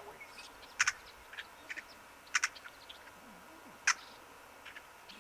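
Short, sharp bird calls: three loud ones about a second and a half apart, with a few fainter calls between.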